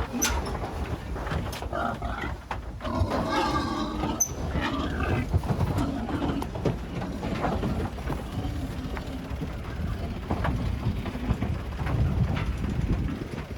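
Pigs squealing and grunting as they are loaded onto a livestock truck, loudest a few seconds in, with scattered knocks and clatter and a steady low rumble underneath.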